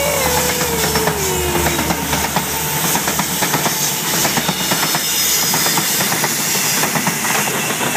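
Alaska Railroad diesel freight locomotives passing close by: a steady, loud rumble and hiss of the train rolling, with rapid wheel clatter on the rails. A whine from the lead units drops in pitch over the first couple of seconds as they go by.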